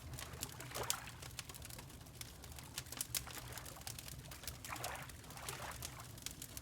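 Fireplace fire crackling with frequent small pops, over water lapping in soft washes about a second in and again around five seconds in.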